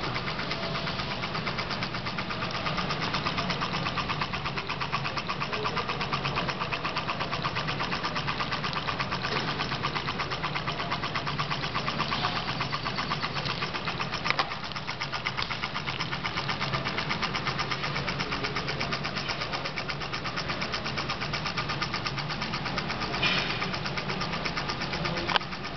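Stirling engine running steadily at about 500 RPM, a fast even mechanical clatter from its moving parts, with a few louder single knocks along the way.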